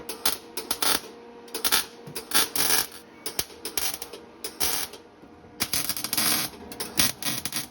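Welding the new muffler's exhaust pipe onto a snowmobile, heard as a series of short welding bursts with brief pauses between them, the longest about a second long past the middle.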